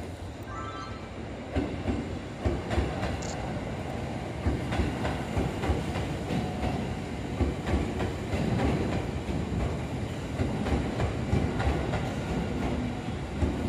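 Seibu 9000 series electric train passing close by, its wheels knocking over rail joints in an uneven string of clacks over a steady rumble.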